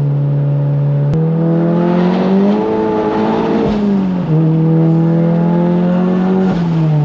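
Turbocharged 2.0-litre four-cylinder of a MK7 Golf GTI, with an IS38 turbo and aftermarket downpipe and catback exhaust, running under way. Its note steps up after a sharp click about a second in, climbs under acceleration, then drops at a gear change at about four seconds and again near the end.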